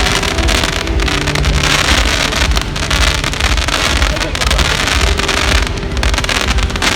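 Wind buffeting the microphone: a loud, continuous rumbling noise that rises and falls.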